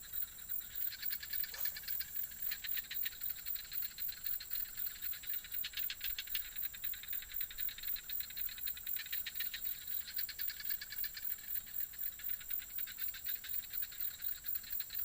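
Chorus of frogs and insects calling: a rapid, evenly repeating pulsing rattle over a steady high-pitched insect trill.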